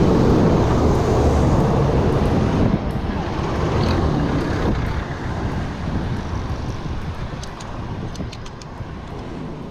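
Wind rushing over an action camera's microphone on a moving bicycle, mixed with road traffic noise, steadily fading out.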